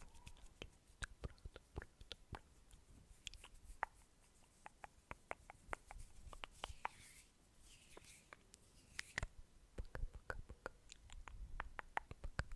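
ASMR mouth sounds: many soft, irregular wet clicks and pops of the lips and tongue, with two short breathy hisses near the middle.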